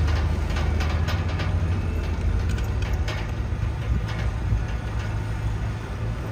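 Heavy diesel engine of earth-moving machinery running steadily under load, with scattered metallic clanks and knocks.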